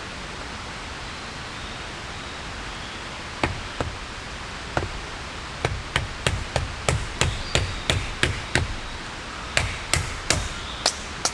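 A run of sharp chopping or hammering knocks that starts sparse and quickens to about three a second, with a short pause before a last group near the end, over a steady hiss of rain.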